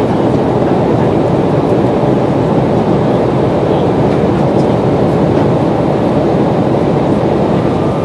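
Steady, loud cabin noise inside a passenger jet: an even rumble of the engines and airframe.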